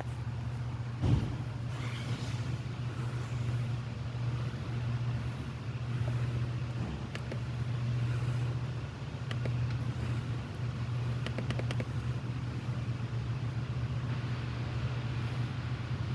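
A steady low engine hum, like a vehicle idling, with one sharp knock about a second in and a few light clicks later on.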